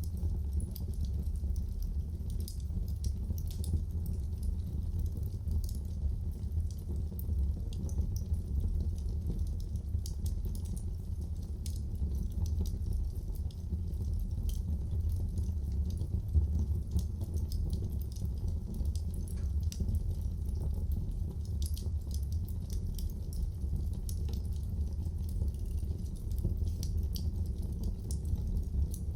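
Wood fire burning in a fireplace: a steady low rumble of the flames with many small irregular crackles and pops.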